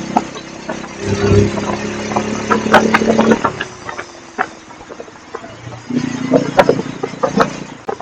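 Bajaj Pulsar N250's single-cylinder engine and exhaust on the move, opening up about a second in, easing off with the pitch slowly sinking, then opening up again about six seconds in.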